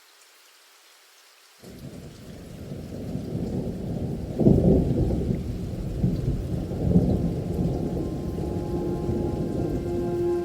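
Rain hissing faintly, then a thunderstorm's rumble breaks in about a second and a half in, swells to its loudest crack a few seconds later and keeps rolling under the rain. Held music notes fade in near the end.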